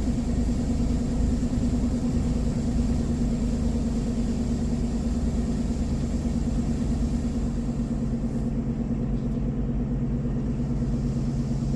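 Car idling, a steady low rumble with a constant hum heard from inside the cabin.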